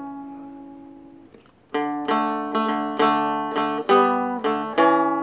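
Seagull Merlin M4 four-string fretted dulcimer: a chord rings and fades away, then about two seconds in a steady fingerpicked pattern resumes, roughly two plucked notes a second.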